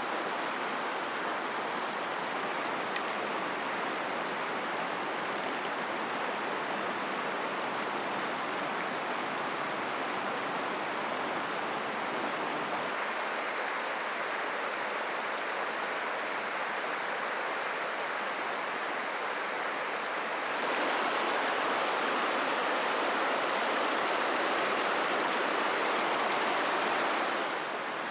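River water flowing in a steady rush. It grows louder and brighter about two-thirds of the way through, then drops back just before the end.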